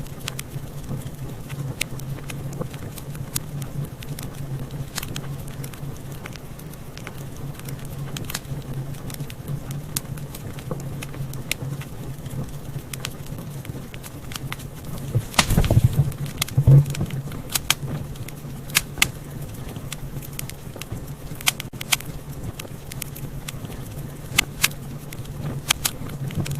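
Wood fire crackling, with scattered sharp pops over a steady low rumble of the flames. A denser run of louder pops comes a little past halfway.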